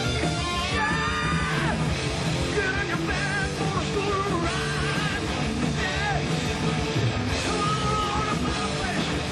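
Live hard rock band playing loud, with electric guitar and yelled, sung vocals; high notes bend and slide up and down over the band.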